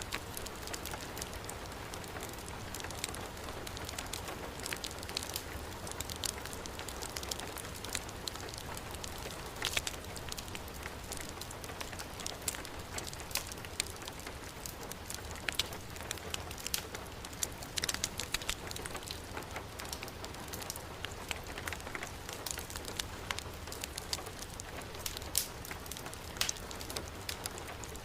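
Steady heavy rain falling, mixed with a crackling wood fire, whose sharp pops and snaps come at irregular moments.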